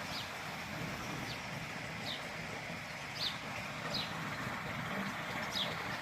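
A bird repeating a short, high, falling chirp about once a second over a steady rushing outdoor noise.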